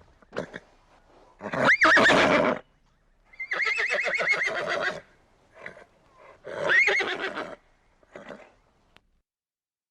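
A horse whinnying: three loud calls, the middle one a long whinny with a rapid quaver in its pitch, with short fainter sounds between them.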